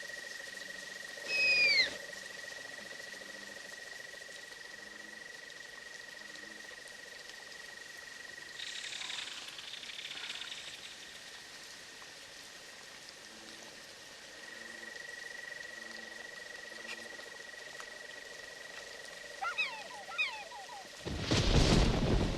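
Film sound-effect ambience of frogs croaking softly under a steady high trill, with a single falling call about a second and a half in and a few quick chirps near the end. Just before the end a loud rumble of thunder and rain breaks in.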